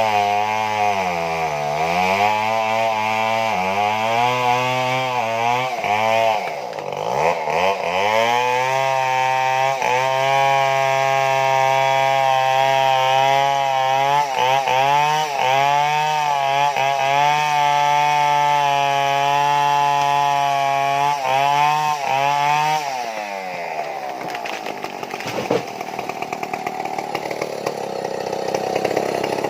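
Stihl chainsaw cutting into a large tree trunk. Its engine pitch rises and falls as the bar loads in the cut, then holds high and steady for about twelve seconds, and winds down about three-quarters of the way through.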